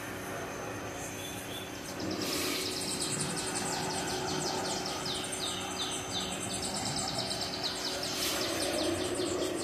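Outdoor street ambience with birds chirping: from about two seconds in, a long series of quick, high, falling chirps, over a faint steady hum.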